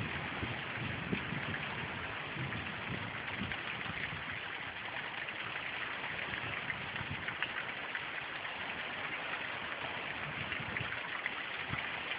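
Rain falling steadily during a thunderstorm, a continuous hiss of rain on surfaces, with a low rumble dying away in the first couple of seconds.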